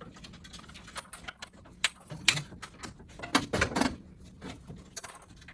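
Scattered sharp clicks and light clatter of hand tools and small parts being handled during the bumper and grille reassembly, a few louder snaps among them.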